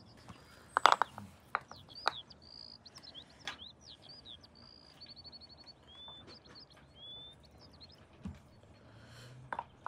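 Small songbirds chirping, with quick rising and falling whistles and rapid trills, and a few sharp clicks or knocks, the loudest about a second in.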